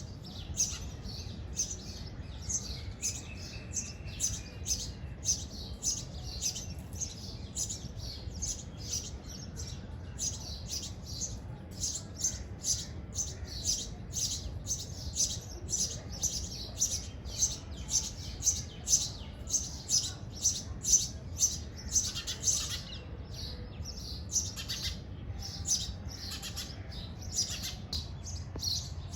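Sparrows at nest boxes chirping in a rapid, continuous series of short high chirps, several a second, growing louder in the middle, over a steady low rumble.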